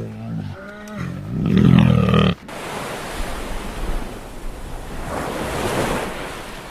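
An animal's pitched call, louder and higher about a second and a half in, then an abrupt cut to a steady rushing noise.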